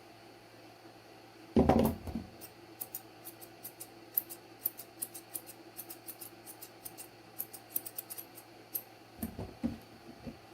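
Grooming scissors snipping dog hair along the edge of the ear in a quick run of small crisp snips, several a second, after a single dull bump near two seconds in.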